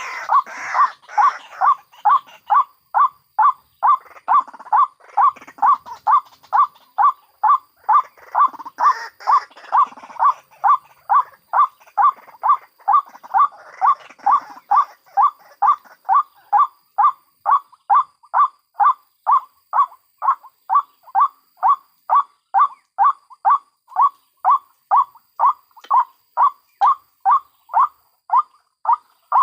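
White-breasted waterhen calling: a monotonous, evenly spaced series of short notes, a little over two a second, with softer, rougher calls mixed in during the first half.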